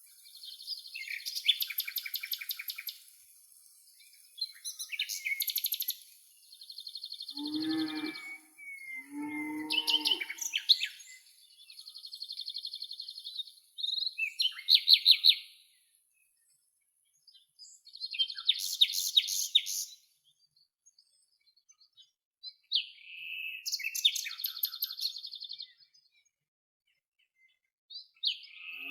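Songbirds singing in short, rapid trilled and chirping phrases separated by pauses. Two lower, drawn-out calls come about 8 and 10 seconds in, and a faint high hiss lies under the first half.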